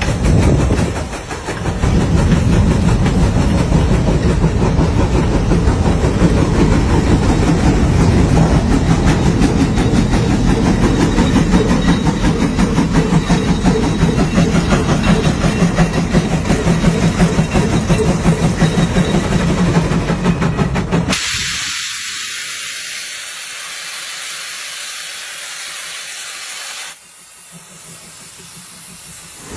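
A heavy engine running with a fast, even beat for about twenty seconds. It cuts off suddenly, leaving a steady hiss that drops in level near the end.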